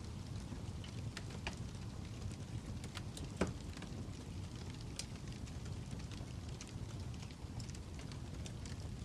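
Fire crackling: a steady low rumble with scattered sharp pops and snaps at irregular intervals, the loudest about three and a half seconds in.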